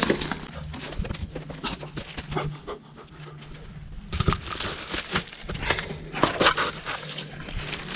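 Footsteps crunching and crackling through dry leaves and twigs, with heavy breathing from the climb.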